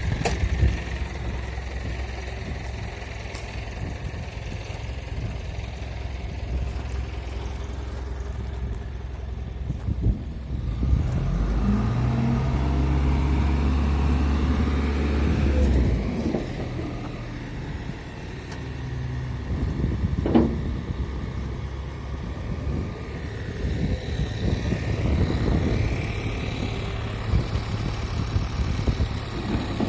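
A truck engine running at idle, rising in pitch and revving up for about five seconds about a third of the way in, then settling back. There is a single sharp knock about twenty seconds in.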